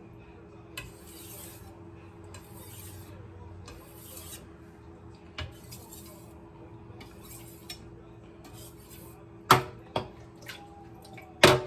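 Kitchen knife drawn in light, soft scraping strokes across a 5000-grit Cerax whetstone, to take off the last of the burr. Near the end there are two sharp metal-on-stone clacks.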